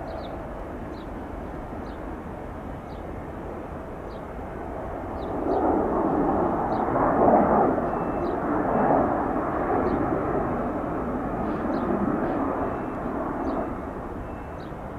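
Airbus A321-200 airliner's jet engines at takeoff power: a steady rush that swells about five seconds in, peaks, and slowly fades as the aircraft passes.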